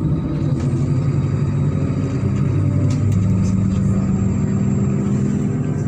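MAZ-103 city bus's engine running, heard from inside the bus, with the pitch rising slowly from about halfway through as the bus pulls harder.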